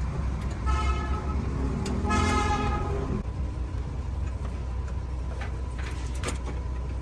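Two short horn toots, the second longer and louder, over a steady low engine rumble.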